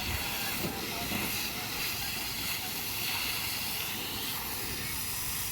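Steady hiss of a fire hose spraying water onto a wildfire, with faint voices about a second in.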